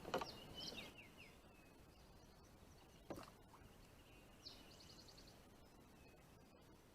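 Near-quiet outdoor stillness with faint bird calls: a few short falling chirps at the start, and a quick trill of repeated high notes about four and a half seconds in. A soft knock sounds once about three seconds in.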